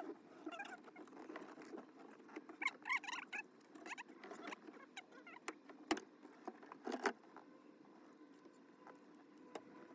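Scattered small squeaks and clicks, with two sharp clicks about a second apart near the middle, over a faint steady hum.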